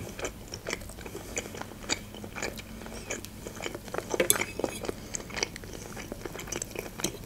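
Close-miked chewing and mouth sounds: soft, irregular wet clicks and smacks of food being chewed. About four seconds in, a fork scrapes and taps against a plate as it cuts into a soft salad.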